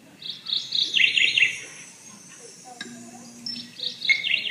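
A small bird chirping in two quick bursts of high, rapid chirps, one near the start and one near the end.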